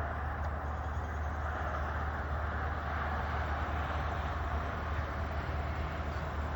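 Steady low vehicle rumble with an even hiss of road noise.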